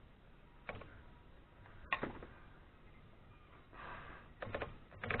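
Scattered clicks and knocks from handling the metal parts of a Remington Noiseless No. 6 typewriter under repair. A sharp knock about two seconds in is the loudest. A brief rustle comes a little before the end, followed by a quick run of clicks.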